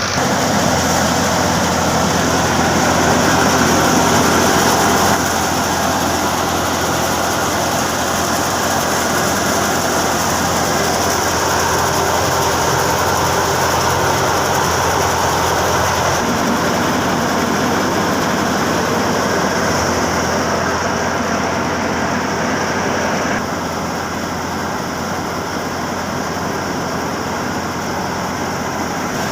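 Tractor-driven wheat thresher running steadily: a tractor engine under load together with the threshing machine's churning mechanical noise. The loudness shifts abruptly a couple of times.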